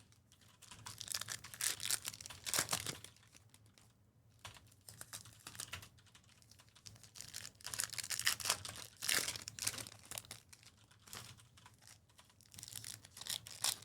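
Irregular soft clicks and crinkly rustling from hands working at a desk, in a small room.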